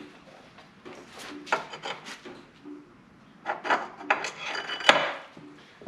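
Hand file scraping across a chainsaw chain's cutters, several short rasping strokes, with a burst of strokes in the second half. The saw is clamped in a bench vise for sharpening.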